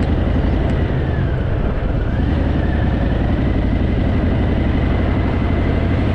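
Harley-Davidson V-twin motorcycle engine running steadily while under way, with a faint high whine that dips and comes back up about a second in.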